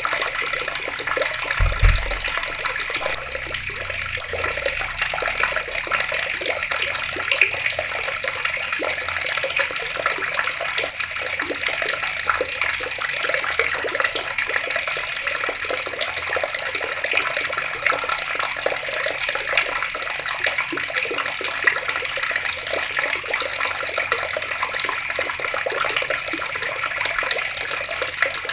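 Water tap running steadily, a continuous flow of water. A brief low thump about two seconds in.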